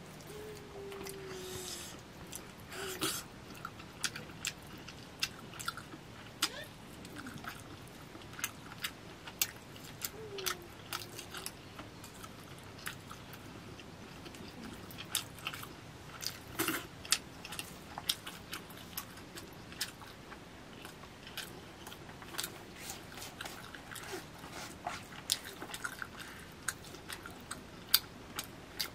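Close-up eating sounds of a man eating biryani rice and curry by hand: chewing and lip smacking, with many irregular sharp clicks.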